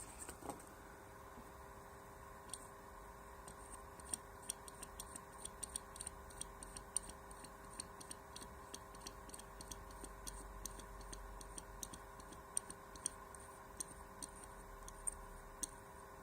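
Faint, irregular small clicks and ticks, growing frequent from about four seconds in, over a steady low electrical hum.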